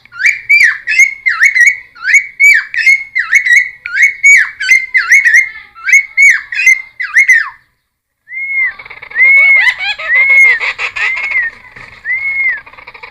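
Cucak timor (helmeted friarbird) singing loudly. First comes a fast run of repeated whistled notes, about two a second, each swooping down and back up. After a short break about 8 s in, a series of arched whistles follows over a harsher chattering.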